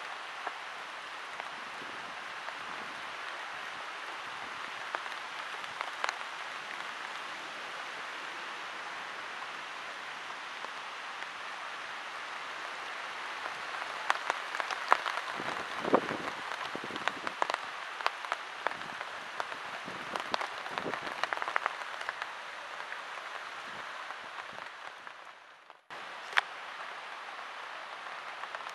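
Steady rain falling, with many sharper drops ticking close by in the middle stretch. The sound drops out briefly near the end, then the rain hiss comes back.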